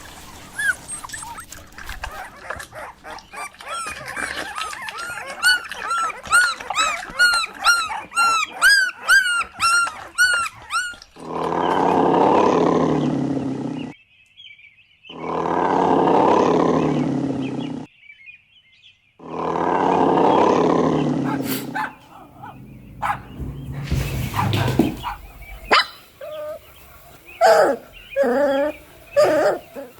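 Puppies yelping in a quick run of high-pitched yips, about two a second, for the first ten seconds or so. Then three long, loud growls of about three seconds each, cut apart by short silences. Scattered barks and yips follow near the end.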